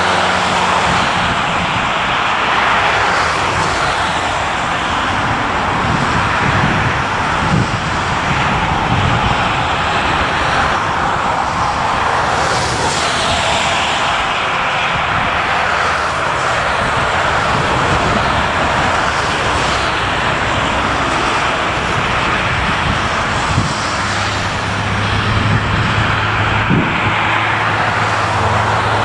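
Jet airliner engines running loud and steady, a dense roar with a low rumble underneath and a brief rise in the higher hiss about halfway through.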